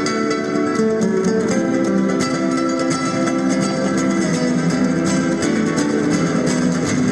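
Acoustic guitar playing a fast instrumental passage: quick plucked and strummed notes ringing over held lower notes, without a pause.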